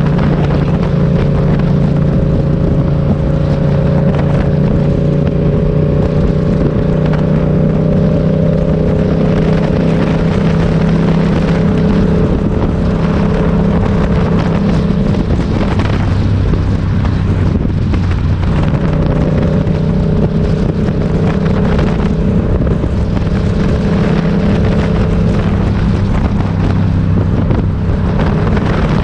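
Motorcycle engine running steadily while riding, with wind noise on the microphone; the engine note drops lower about halfway through.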